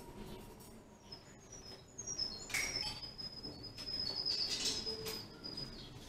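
A bird chirping in strings of short, high whistled notes, with a few brief knocks and rustles of handling around the middle.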